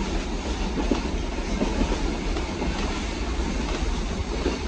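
Passenger train running along the track, heard from inside a carriage: a steady low rumble with occasional short clicks and knocks from the wheels.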